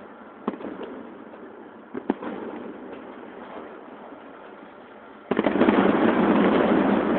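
Distant fireworks show: two single sharp bangs in the first two seconds, then a sudden loud, dense run of crackling that starts a little past five seconds in and carries on.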